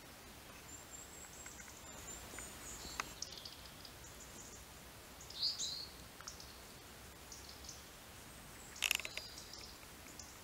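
Small birds calling in woodland: thin, high chirps scattered throughout, with louder short calls about five and a half seconds in and near the end, over a faint steady hiss.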